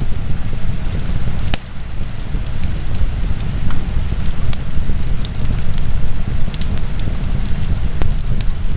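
Wood fire burning in a fireplace: irregular crackles and sharp pops over a loud, steady low rumble.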